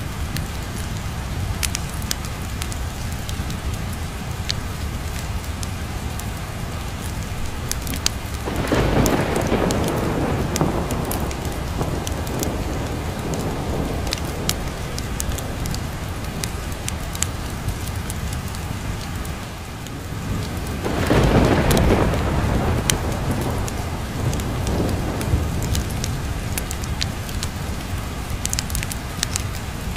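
Thunderstorm: steady rain with two rolls of thunder, the first about nine seconds in and the second about twenty-one seconds in, over a constant low rumble. Scattered sharp crackles throughout.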